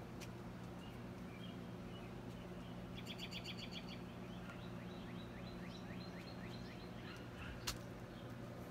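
Faint songbirds singing: a rapid high trill about three seconds in, then a run of repeated down-slurred notes, several a second, over a steady low hum. One sharp click sounds near the end.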